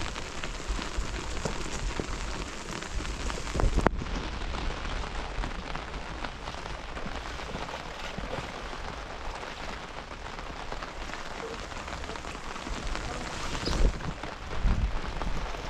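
Steady rain falling and pattering on surfaces, with a few short low thumps, the loudest about four seconds in and near the end.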